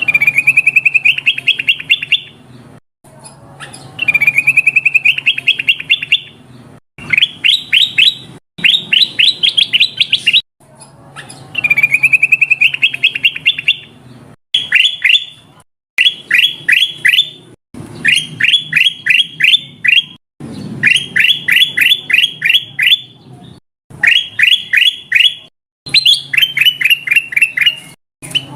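Kutilang emas bulbul song played as a trapper's lure call. Loud bursts of rapid chirping notes, each lasting a second or two with short pauses between, some phrases rising in pitch at the start. The phrases repeat almost identically throughout.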